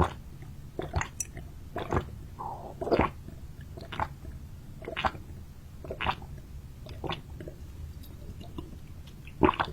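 A person chewing and biting seafood close to the microphone, with short wet mouth sounds about once a second.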